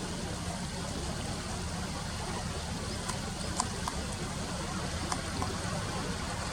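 Steady sound of flowing river water over a low, even rumble, with a few faint clicks a little past the middle.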